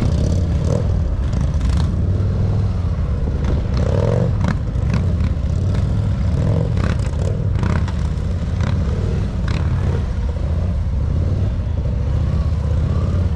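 Motorcycle engine running at low speed, a steady low rumble, with scattered clicks and knocks over it.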